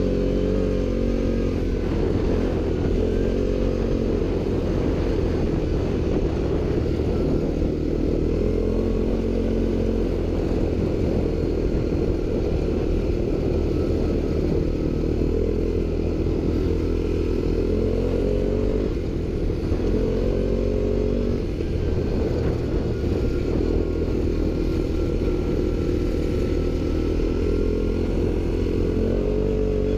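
ATV engine running under load, its revs rising and falling several times over a steady low rumble.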